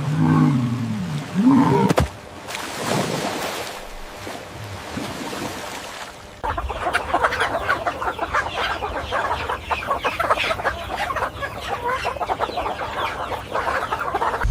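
Chickens clucking and calling. From about six seconds in there is a dense run of quick, short calls with a low rumble underneath.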